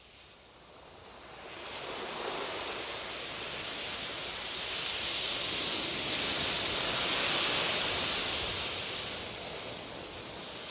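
A rushing noise that swells over a few seconds and then slowly fades.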